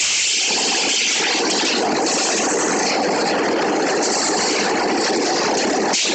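Rebar pile cage welding machine running, a steady, dense mechanical noise with no breaks.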